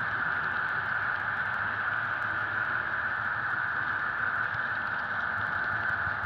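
HO scale model diesel locomotive's Soundtraxx Tsunami sound decoder playing a steady diesel engine sound through its small onboard speaker as the train runs.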